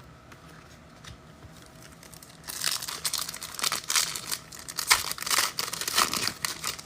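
Wrapper of a trading-card pack being torn open and crinkled. A dense crackling rustle starts about two and a half seconds in and runs for about four seconds before stopping.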